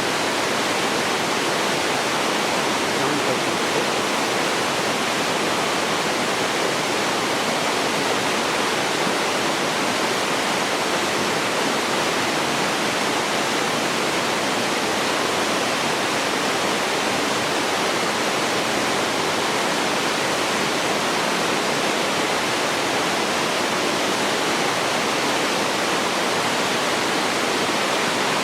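Waterfall: water falling in a steady, unbroken rush over rock cascades into a mountain stream.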